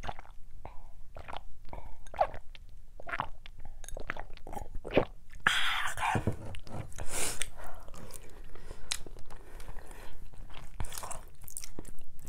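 A person chewing and eating macaroni and cheese: wet chewing and mouth clicks, with many short scattered clicks and a louder, noisier stretch about halfway through.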